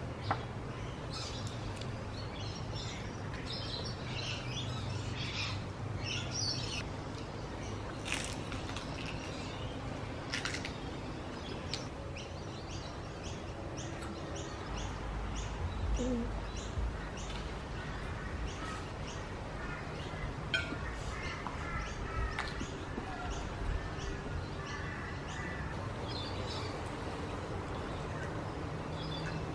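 Garden birds chirping and calling: many short, high chirps scattered throughout, over a steady low hum.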